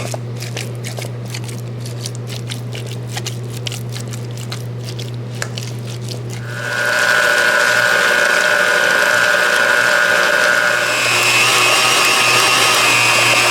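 Clicks and scrapes of baked sweet potatoes being mashed in a bowl, over the steady low hum of a running dishwasher. About halfway through, an electric mixer starts up loudly, whipping the potatoes smooth to catch the strings, and its whine rises in pitch about two seconds before the end.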